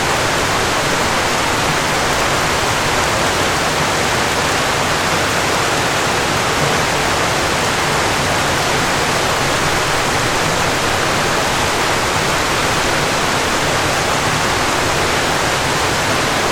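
Steady rush of falling water from a waterfall, an even hiss and roar with no breaks.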